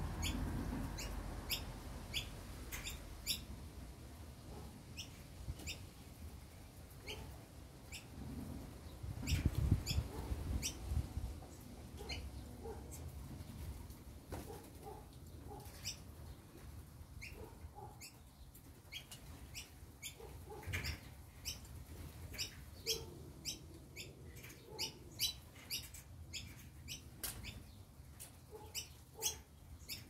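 Small birds chirping, many short, sharp high calls scattered throughout, with some lower calls here and there. A low rumble sits under them at the start and again around ten seconds in.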